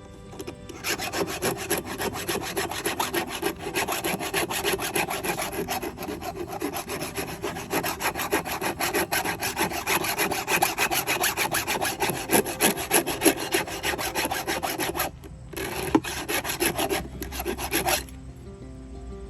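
Hand file rasping against the cutters of a Craftsman chainsaw chain during manual sharpening. The filing runs as a fast run of rough strokes from about a second in, pauses briefly near fifteen seconds, resumes for a few seconds and then stops near the end.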